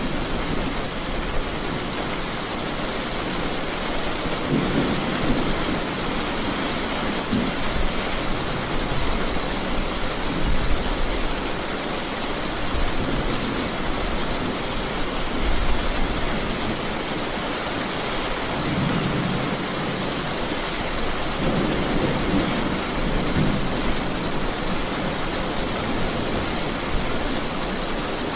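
Steady heavy rain hissing, with low thunder rumbling and swelling several times.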